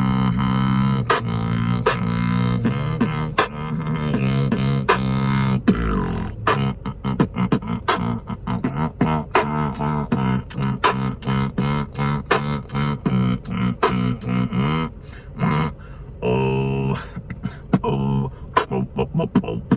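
Freestyle beatboxing: a hummed bass line held under a steady beat of mouth-made kicks and snares. The percussion grows busier toward the middle, drops off briefly about fifteen seconds in, then picks up again.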